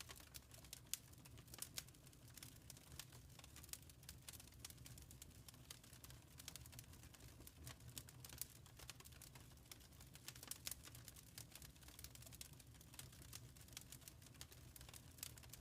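Wood fire crackling faintly: small irregular pops and snaps over a low steady rumble.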